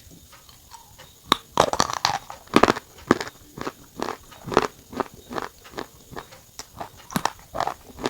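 Close-miked eating sounds: after about a second of quiet, a sharp bite, then chewing at roughly two chews a second.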